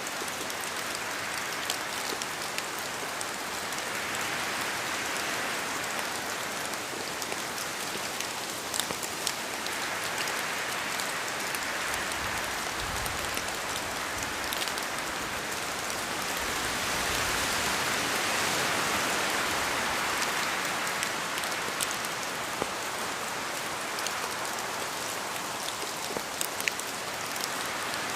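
Steady rain falling in a forest, with scattered heavier drops ticking down from the trees. The hiss swells and eases every several seconds as wind moves through, and a low rumble comes in about halfway through.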